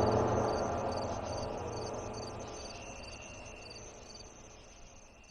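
Insect chirping, about two short high chirps a second, like crickets at night, over a low rumbling drone that fades steadily away.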